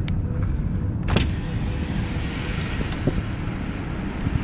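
Car running, with a steady engine and road rumble heard from inside the cabin. Two sharp clicks stand out, about a second in and again about three seconds in.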